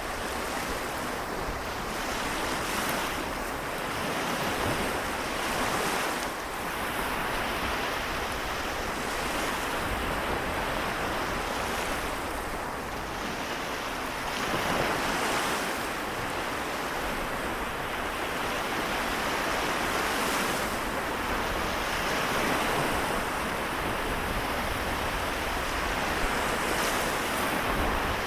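Sea waves of the Seto Inland Sea washing in, a steady rush that swells and falls every few seconds.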